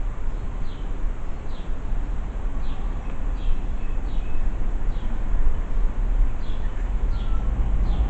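Birds chirping outside, a short falling chirp repeated about once a second, over a steady low rumble.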